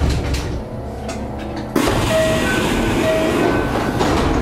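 Kintetsu electric train standing at a station platform. A steady rushing noise starts suddenly nearly two seconds in, with a few short alternating high tones over it.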